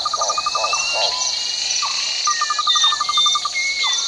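Outdoor chorus of calling frogs and birds. A steady high-pitched drone runs underneath, a fast trilling call of about a dozen pulses a second sounds twice, and thin whistled bird notes rise and fall over it.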